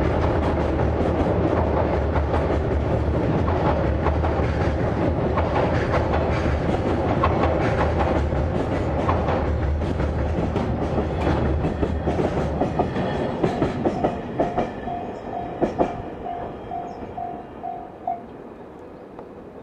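Freight train's container wagons rolling over a railway girder bridge: a heavy rumble with clickety-clack of wheels over the rail joints. The sound fades as the last wagons pass, leaving a few separate sharp joint clicks near the end.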